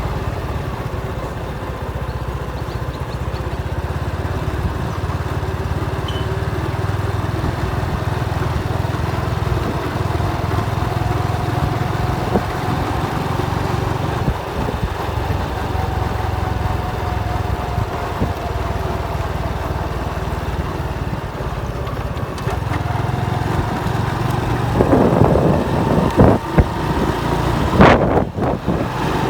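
Motorcycle engine running steadily under way, a continuous low rumble. Several loud sharp knocks come near the end.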